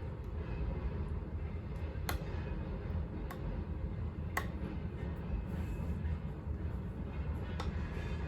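A spoon clinking against a soup bowl four times, in short sharp clicks a second or more apart, over a steady low background hum.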